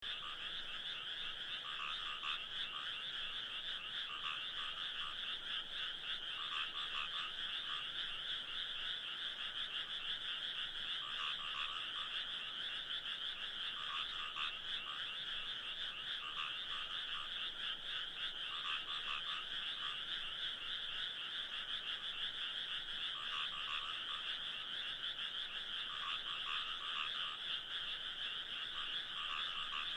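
A dense chorus of many frogs calling all at once, a steady wall of rapid pulsing croaks, with other calls standing out every few seconds.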